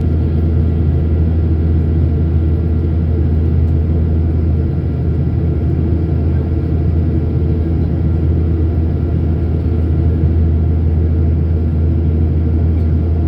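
Steady cabin noise inside a climbing passenger airliner: a constant low drone of engines and airflow, with a few faint steady tones above it.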